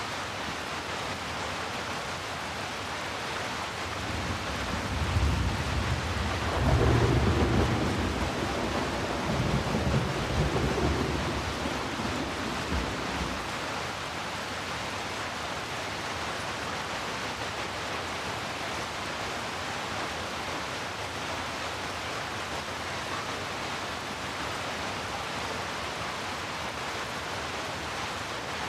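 Steady rain with a roll of thunder: a deep rumble swells a few seconds in, peaks twice and dies away about halfway through, while the rain hiss carries on.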